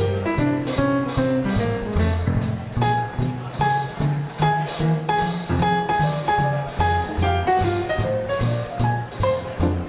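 Live small-group swing jazz band playing an instrumental passage: horns and piano over a steady swing beat on drum kit and double bass.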